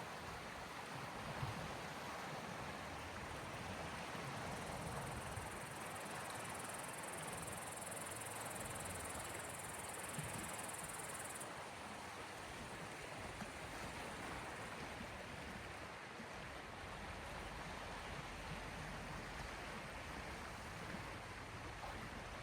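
Waves on the Gulf of Finland washing softly against the shore: a steady rush of water with no single breaker standing out.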